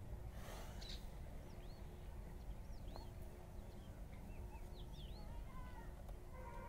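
Small birds chirping: a scatter of short arched calls over a low steady rumble. Near the end a steady pitched tone with several overtones begins.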